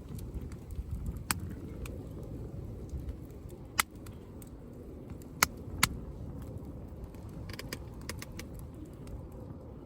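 Wood campfire crackling: a few sharp, loud pops of burning wood, the loudest about halfway through, and fainter crackles later, over a steady low rumble.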